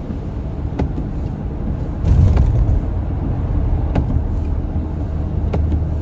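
Road noise of a car heard from inside the cabin while driving on a wet, snowy road: a steady low rumble that swells about two seconds in. Light clicks repeat about every second and a half.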